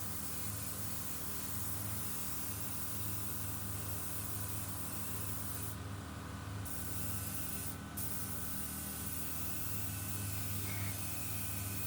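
Steady hiss of a pressurised spray, cutting out briefly about six seconds in and again near eight seconds, over a constant low mechanical hum.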